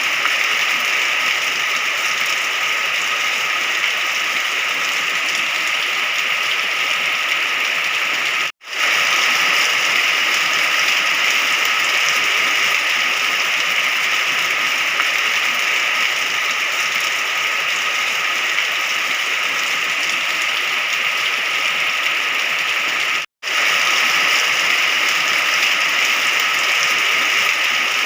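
Steady rain, an even hiss with no distinct drops or thunder. It cuts out to silence twice, briefly, about eight seconds in and again about twenty-three seconds in, each time fading back in.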